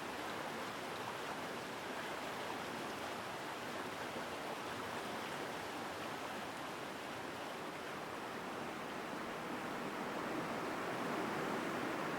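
Forest mountain stream rushing steadily over rocks, a strong, even flow of water that grows a little louder near the end.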